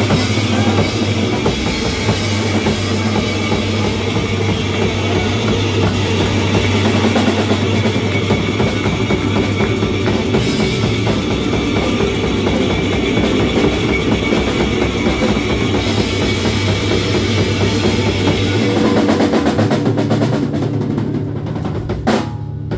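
Live band playing the instrumental close of a reggae song, drum kit to the fore, until the music stops abruptly near the end.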